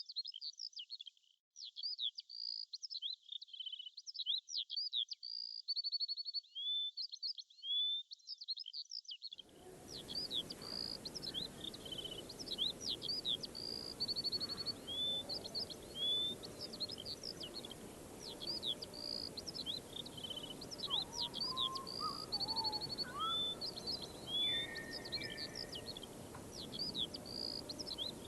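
A songbird singing a fast, continuous stream of high chirps, rising whistles and short rattling trills. About nine seconds in, a steady outdoor background hiss comes in under the song, with a few fainter, lower calls later.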